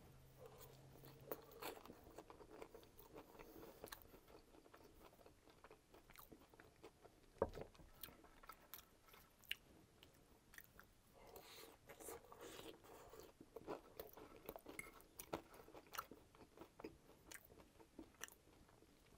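Faint close-miked chewing and mouth sounds of a man eating sauce-covered Coney fries from a fork, with many small clicks and one sharper click about seven and a half seconds in.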